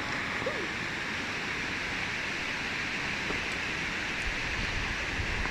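Steady rushing of a waterfall, an even noise that holds without change.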